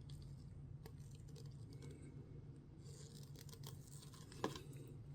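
Faint scratching and rubbing of handling on a work surface over a steady low hum, with a light click near the start and a small knock about four and a half seconds in.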